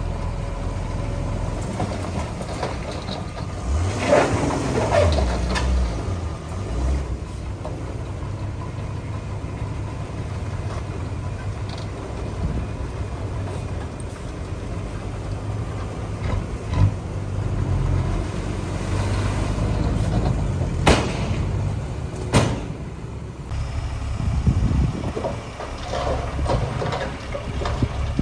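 Heavy diesel construction machinery running steadily, with a brief rise and fall in pitch about four seconds in and two sharp metallic knocks about two-thirds of the way through.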